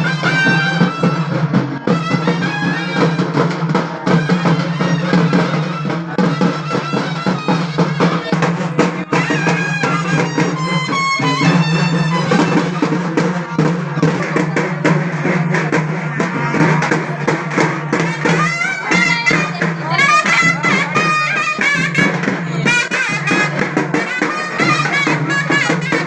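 Live festival band music: drums beating densely under a wind instrument playing a wavering melody, over a steady low drone.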